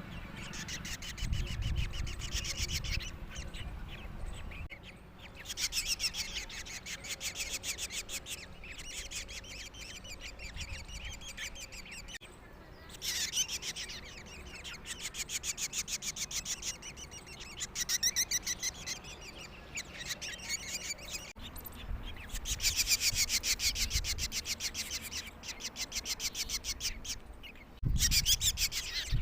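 Young birds in a nest chirping in rapid, high-pitched bouts of many calls a second, each bout lasting a second or a few and then pausing. A few low bumps are heard near the start and near the end.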